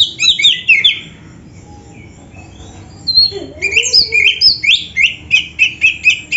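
Oriental magpie-robin (black-breasted kacer) singing rapid runs of loud, sharp whistled notes. It pauses for about two seconds near the start, then resumes with a dense run.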